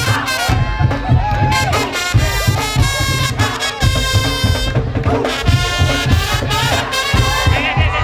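Madurese tong-tong (musik daul) ensemble playing loudly: fast, heavy drumming with a bright, piercing wind-instrument melody over it.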